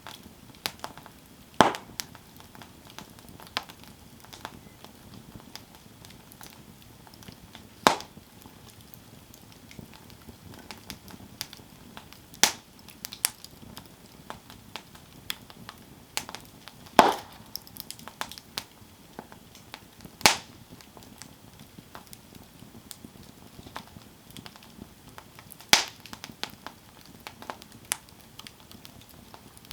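Wood campfire burning and crackling: a low steady hiss with irregular small ticks and about half a dozen louder sharp pops spread through.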